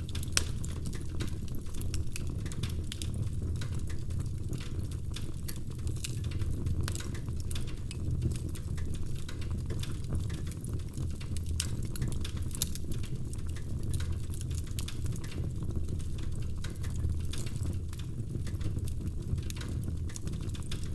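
Wood fire in a fireplace crackling, with frequent irregular small pops and snaps over a steady low rumble.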